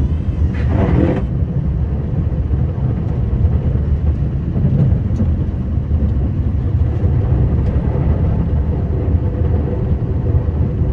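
Scania R560 truck's V8 diesel running steadily under way while plowing, a deep, even sound, with a brief louder noise about a second in.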